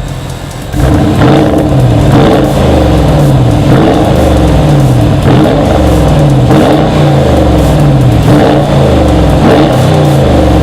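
Porsche Cayenne engine revved repeatedly through a tuned exhaust system: it starts about a second in, and the exhaust note climbs and falls back about seven times, roughly every second and a half.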